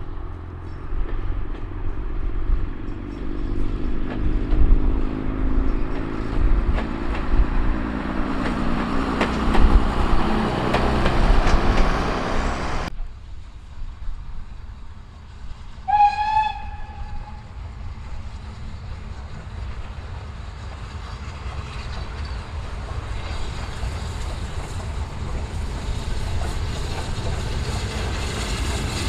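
A train passing close by, its rumble building for about thirteen seconds and then cutting off abruptly. A few seconds later a steam locomotive's whistle gives one short blast, followed by a steady rumble of the train that grows slightly louder toward the end.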